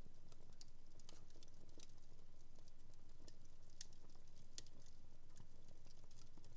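Wood fire in a home fireplace crackling, with irregular sharp pops and snaps a few times a second over a steady low hum.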